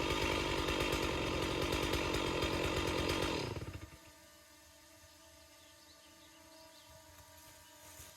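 Stihl chainsaw running steadily, then shut off about three and a half seconds in, its engine winding down. A faint steady hum remains afterwards.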